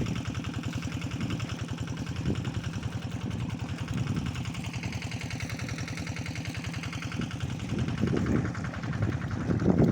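Small diesel engine of an irrigation water pump running steadily with an even, fast chugging pulse, with a few louder bumps near the end.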